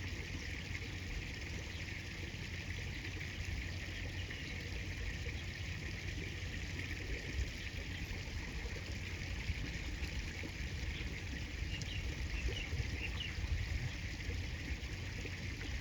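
River water flowing steadily, with a few faint short chirps a little after the middle.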